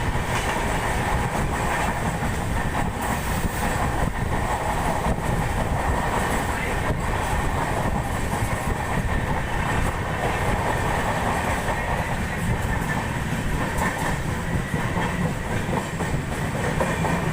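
Passenger train running along the track, a steady rumble of wheels on rails with occasional faint clicks from the rail joints.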